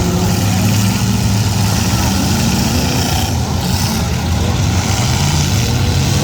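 Demolition derby cars' V8 engines running steadily together, a loud low rumble with no sharp revving or impacts.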